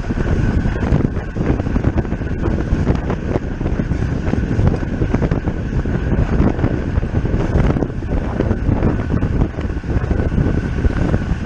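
Heavy wind buffeting the microphone of a bicycle-mounted camera while riding at race speed, with tyre and drivetrain noise underneath.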